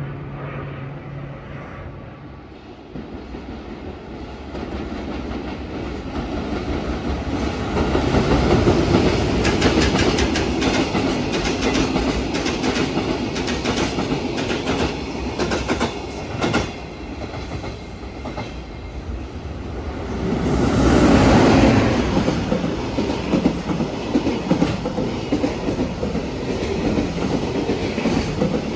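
Freight container train passing close on the through track: steel wheels clatter over the rail joints in a fast, continuous run of clicks as the flat wagons roll by. It builds up over the first several seconds and stays loud, swelling again about two-thirds of the way in.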